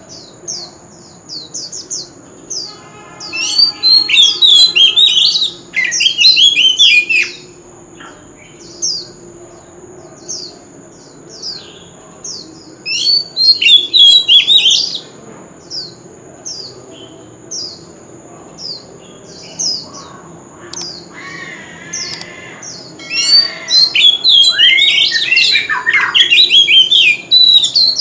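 Oriental magpie-robin singing: three loud bursts of varied, sliding whistled phrases, with short high notes that slide downward, about one a second, in the gaps between. A thin, steady high whine runs under the song throughout.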